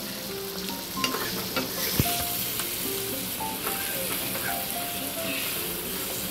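Chopped onions, tomatoes and garlic sizzling in hot oil in an iron kadai as a steel ladle stirs and scrapes them, sautéing until the onions turn glassy. There is one sharp knock about two seconds in.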